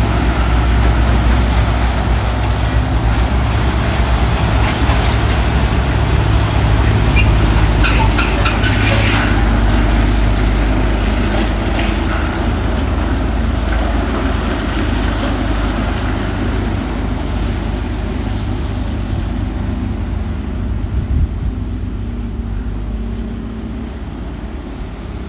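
Heavy diesel truck engine running steadily under load, with a few sharp clicks and rattles in the middle; the sound fades gradually over the last third.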